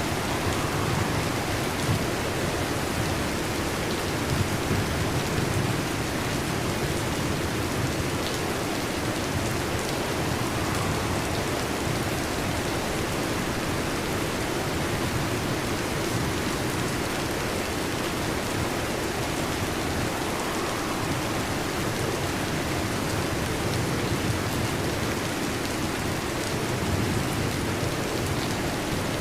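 Steady rain: an even, unbroken hiss with a low rumble underneath and no sharp thunderclaps.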